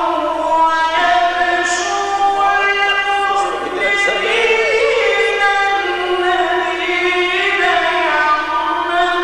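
A male Quran reciter's voice holding long, ornamented melodic notes in the mujawwad style of recitation, the pitch stepping between held tones and wavering in trills around the middle.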